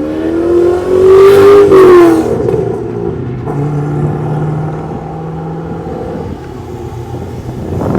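A car accelerating hard past, its engine note climbing and growing louder, loudest about two seconds in, then dropping in pitch as it goes by. A lower, steady engine sound follows.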